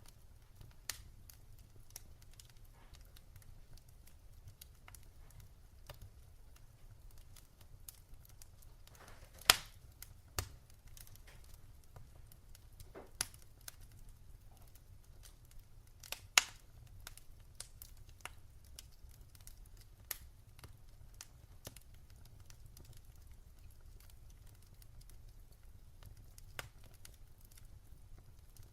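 Wood fire in a fireplace crackling, with irregular small snaps over a low steady rumble and two sharper, louder pops about a third of the way in and just past halfway.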